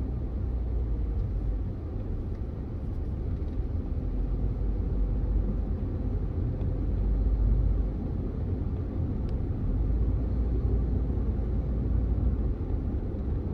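Low, steady rumble of a moving car, like road and engine noise.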